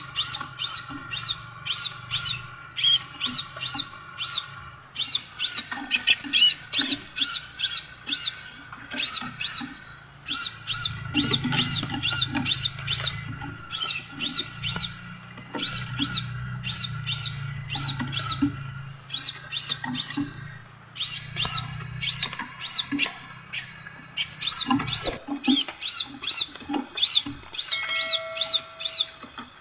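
Sepah raja bird calling: loud, sharp, high chirps repeated about three times a second in long runs, over fainter steady whistling notes and a low hum.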